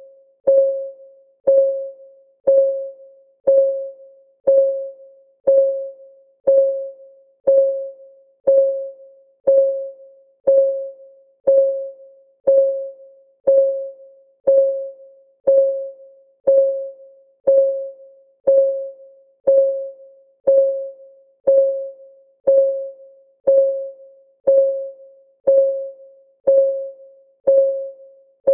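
Countdown timer's clock-ticking sound effect: a short, clean, mid-pitched tock exactly once a second, each one dying away quickly, in a steady unchanging rhythm.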